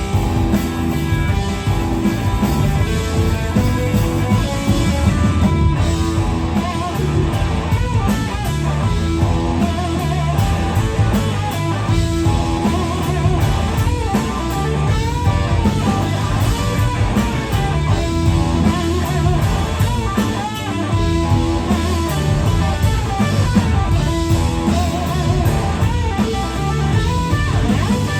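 Live blues-rock band playing an instrumental passage, with an electric guitar lead bending notes over bass and drum kit.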